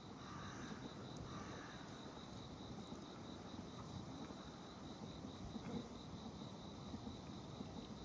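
Faint insect song, a high, even chirping at about four pulses a second, over a low background rumble.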